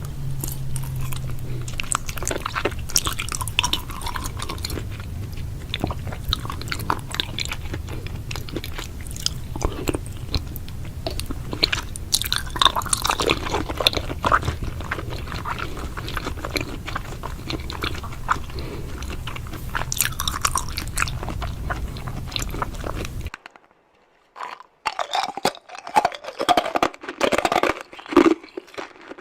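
Close-miked chewing and crunching of crisp food, a dense run of irregular crunches and mouth sounds over a low steady hum. About 23 seconds in it cuts off abruptly; after a brief silence come sharper, more separate crunching sounds.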